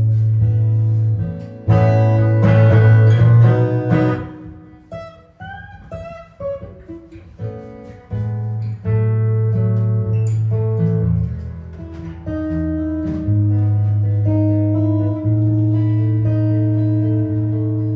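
Jazz guitar improvising. Loud strummed chords come about two seconds in, then a quieter passage of single notes, then long held low notes under sparser chords.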